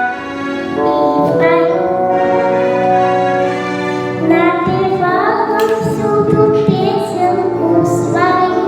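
A child singing a melody over recorded instrumental backing music, holding long notes that change pitch every second or so.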